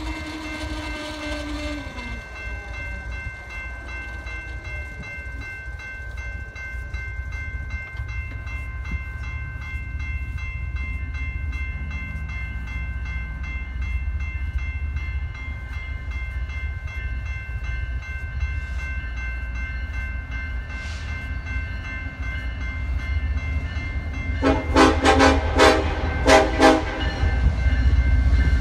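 Grade-crossing warning bell ringing steadily while an approaching BNSF freight's diesel locomotives rumble low and grow louder. Near the end the lead locomotive blows its horn in several loud blasts, a chord of several notes, as it nears the crossing.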